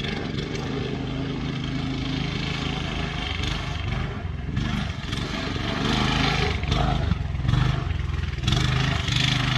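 Engine running at a steady speed, then revving up and down unevenly through the second half, loudest near the end.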